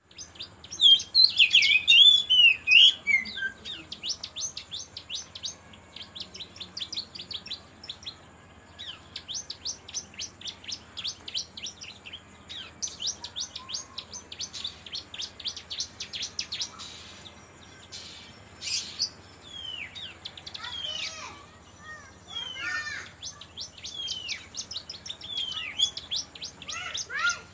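Domestic canary singing. Its song is full of rapid high trills in the style of the bar-winged prinia (ciblek kristal), broken by short pauses, with a loud warbled phrase near the start and falling slurred notes later on.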